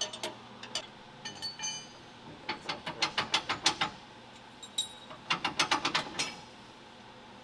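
Ratchet clicking in two quick runs of rapid clicks, with a few ringing metal clinks before them.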